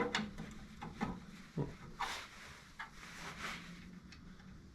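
A few light knocks and short scraping sounds, the clearest about two seconds in, over a faint steady hum.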